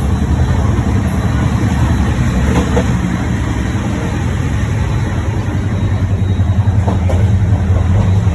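Steady low rumble of a moving passenger train, heard from inside the coach: the Rajdhani Express running at speed. It grows slightly louder near the end.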